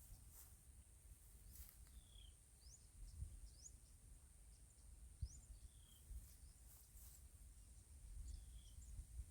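Near silence outdoors, with faint short bird chirps every second or two, some falling and some rising in pitch, over a thin steady high whine and low wind rumble.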